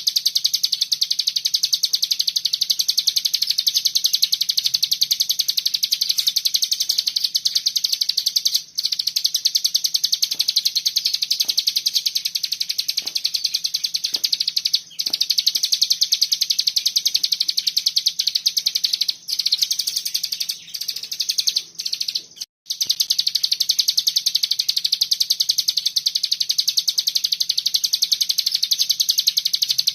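A cigun songbird singing a dense, rapid rattling trill ('ngebren') almost without pause, the notes packed close together in a high band. It breaks off briefly a few times, most clearly about 9, 15, 19 and 22 seconds in.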